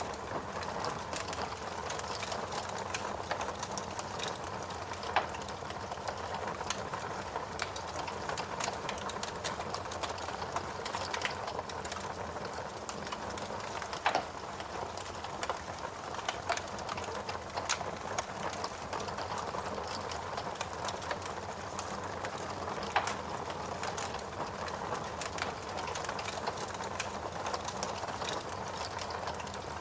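Wood fire burning in a fireplace: a steady crackle full of small snaps, with a few louder pops about five, fourteen and twenty-three seconds in.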